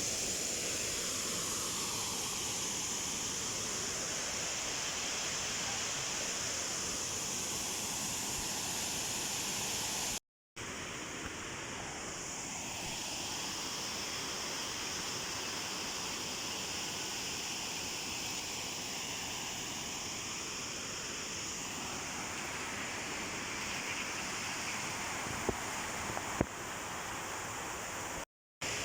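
Waterfall rushing in a steady, even roar of falling water, cut off twice for a split second.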